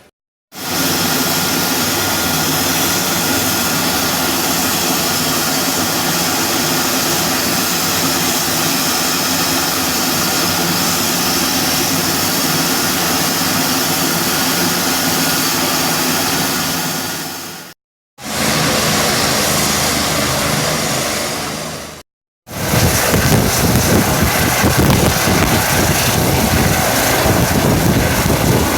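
Helicopter running: a loud, steady engine and rotor noise with a fixed hum of pitched tones. It is heard in three stretches split by abrupt cuts, and the last stretch has a heavier, uneven low rumble.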